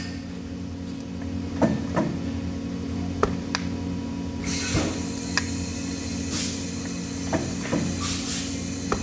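Factory workshop sound: a steady machine hum with scattered sharp metal knocks and several short bursts of hiss in the second half.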